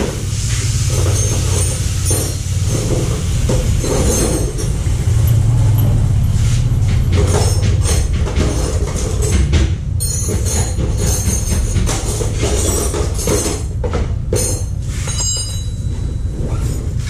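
Metal tools and suspension parts clanking and scraping, with short metallic squeals, over a steady low rumble, while a car's rear suspension is being taken apart.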